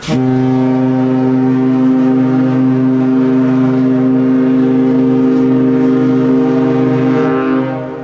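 Ship's horn sounding one long, deep, steady blast of about seven seconds that starts suddenly and dies away near the end.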